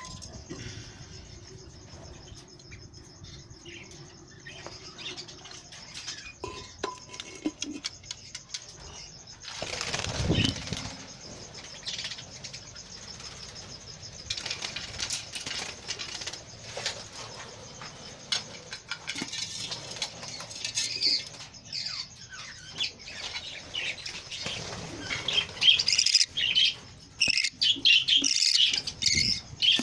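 Budgerigars fluttering their wings and moving about, with scattered rustling and knocking and short high chirps. The chirping thickens and grows louder near the end.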